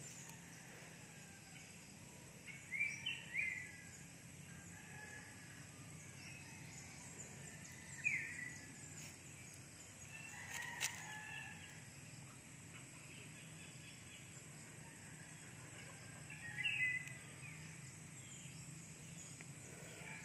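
Faint outdoor ambience with a few short bird calls, spaced several seconds apart, and a single sharp click near the middle.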